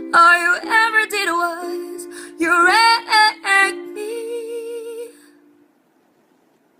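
A woman singing the closing phrase of the song with vibrato over held notes from a plucked string accompaniment. It fades out about five seconds in, leaving near silence.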